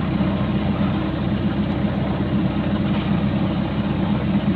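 Hyundai backhoe's diesel engine idling steadily.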